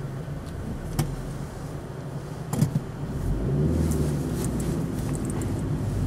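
Car engine running, heard from inside the cabin as the car moves off slowly, the engine note growing louder about three seconds in. Two sharp clicks come about one and two and a half seconds in.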